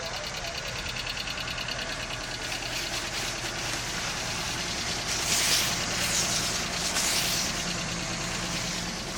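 Car engine idling steadily while it warms up, with an even, rapid pulse. About halfway through, a loud hissing rush rises over it for a couple of seconds.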